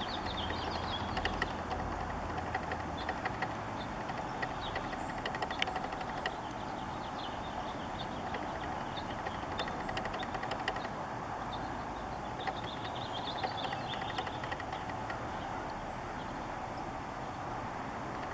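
Beaver kit chewing, a scattered run of small crunching clicks, over a steady background rush. Small birds twitter briefly about a second in and again around two-thirds of the way through.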